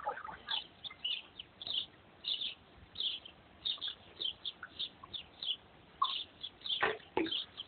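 Small birds chirping over and over, about two or three short high chirps a second, with two louder short sounds near the end.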